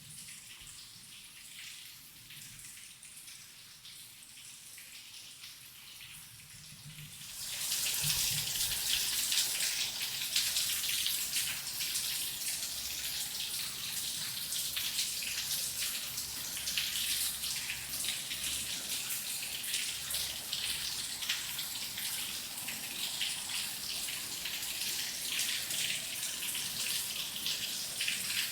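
Rain falling steadily, faint at first; about seven seconds in it turns suddenly much louder and stays heavy.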